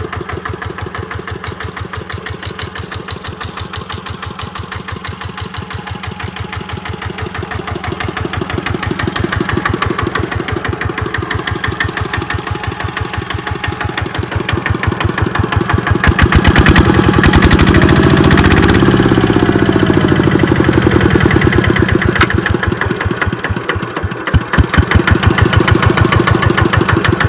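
Kubota RT90 walking tractor's single-cylinder diesel engine running with evenly spaced firing beats. It speeds up and gets louder about sixteen seconds in, then eases back down. It dips briefly near the end.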